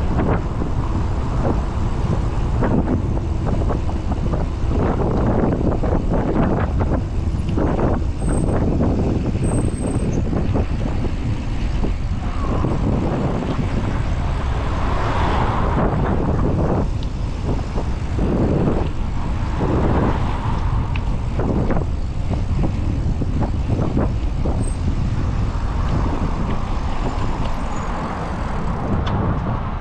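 Wind rushing over the microphone of a moving bicycle, with road traffic passing and a few short clicks.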